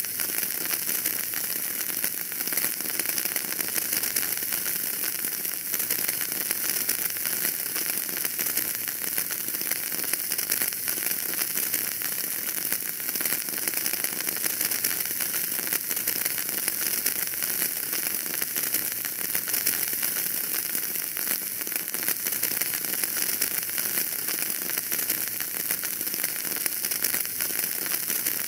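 Wood fire burning in a fireplace, crackling steadily: a constant hiss dotted with many small pops and snaps.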